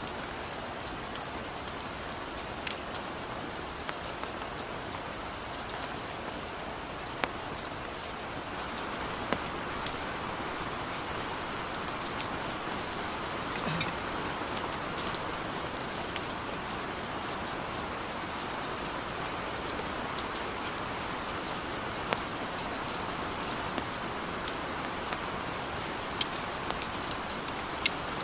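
Steady rain falling, with scattered louder drops striking close by every second or two. The rain grows a little heavier about nine seconds in.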